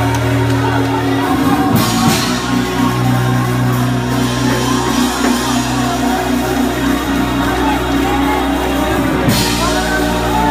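Worship music of sustained keyboard chords that change about two seconds in and again near the end, with the congregation's voices calling out in praise over it.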